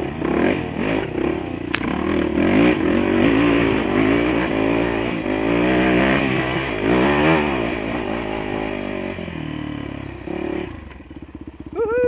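Dirt bike engine being ridden hard, the revs rising and falling again and again as the throttle opens and closes. About ten seconds in it drops back to a low off-throttle putter, then revs up again near the end.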